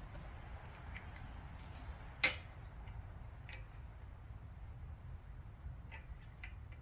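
Light metallic clicks and clinks of small steel parts being handled, a rocker arm and a new needle-bearing trunnion being set in place, with one sharp clink a little over two seconds in, over a low steady hum.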